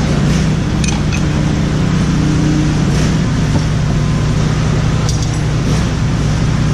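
Kubota KX057-5 excavator's diesel engine running steadily, with a few light metal clinks about a second in and again about five seconds in.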